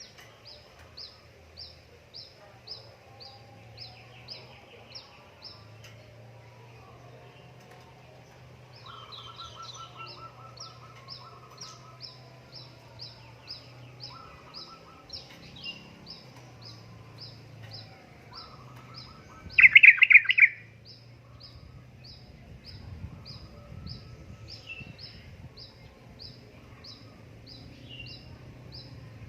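Yellow-vented bulbul (trucukan) calls from a lure recording. A steady run of short high chirps comes about two a second, broken now and then by lower chattering phrases. The loudest is a rapid chattering burst about twenty seconds in.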